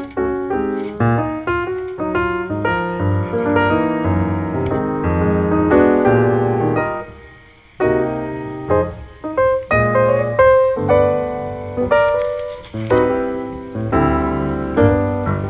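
Piano music: a solo piano line of struck notes, each fading after it is played, with a brief pause about halfway through.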